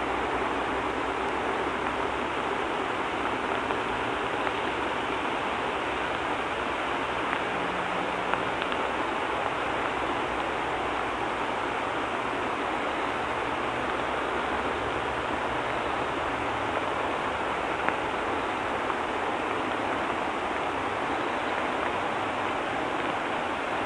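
Steady rain falling, an even hiss that does not let up, with a few brief ticks.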